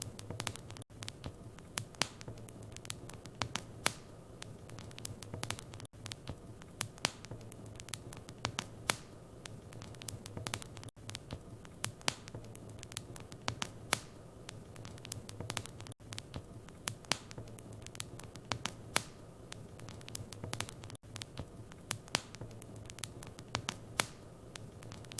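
Wood fire in a fireplace crackling, with many irregular sharp pops and snaps over a steady low hum. The sound cuts out for an instant about every five seconds.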